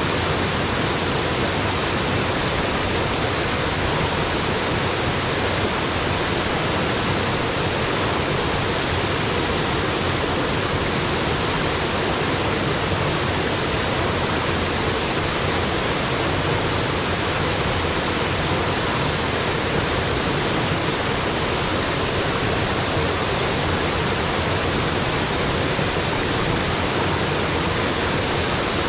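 Small mountain waterfall pouring steadily into its pool, an even, unbroken rush of water. A few faint high bird chirps come through over it now and then, mostly in the first part.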